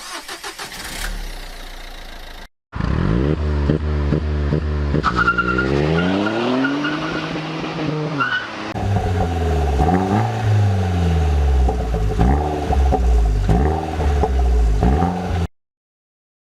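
Turbocharged hot-hatch engine being revved repeatedly in place, its exhaust note sweeping up in pitch and falling back again and again. The sound changes about nine seconds in, as if a different car or clip, and cuts off suddenly near the end.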